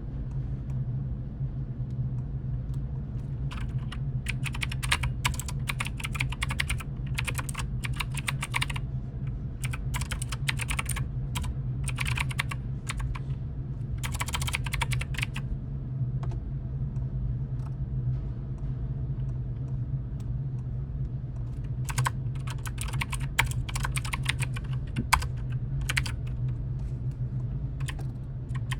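Computer keyboard typing in quick runs of keystrokes, with a pause of several seconds in the middle, over a steady low hum.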